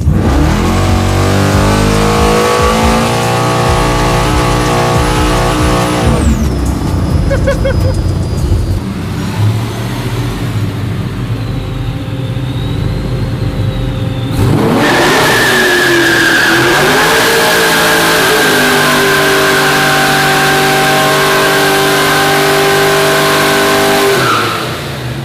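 Muscle car V8 revved up and held at high revs with tyres spinning, as in a burnout. It drops back for several seconds about six seconds in, then returns for a long, steady high-rev run with a high tyre-squeal tone that stops just before the end.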